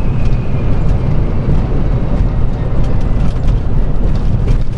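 Road noise of a flatbed straight truck driving on a rough, bumpy highway: a steady low rumble of engine and tyres, with scattered knocks and rattles from the bumps.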